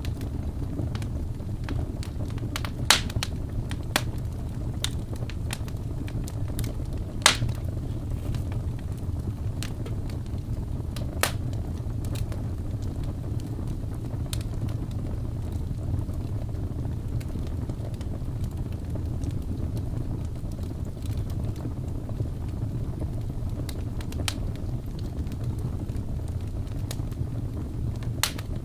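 Wood fire burning with a steady low rumble and occasional sharp crackles and pops, the loudest about three and seven seconds in.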